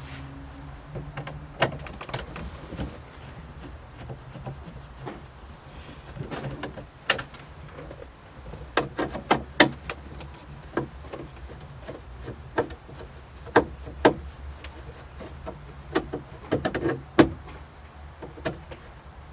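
Irregular clicks, knocks and rattles of hand tools and loosened trim and body parts as a VW Polo is taken apart, over a low steady hum.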